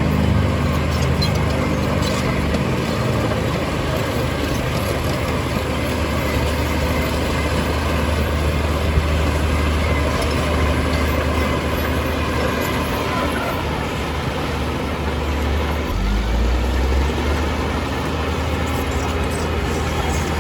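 Heavy diesel engine of earthmoving machinery running under load. Its pitch drops over the first couple of seconds, holds steady, then climbs again about 16 seconds in as the engine revs up.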